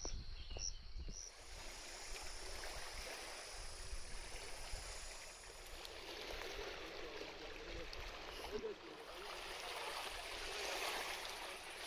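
Running water: a steady, even rushing that swells a little near the end.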